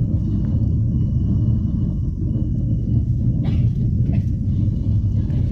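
Steady low vehicle rumble, with a faint thin high tone above it.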